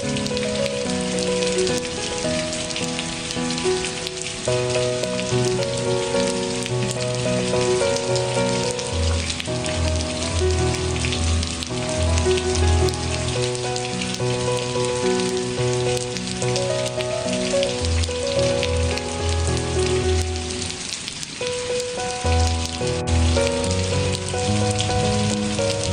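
Steady rain falling, mixed with instrumental music of held notes over a slow bass line that drops out and returns.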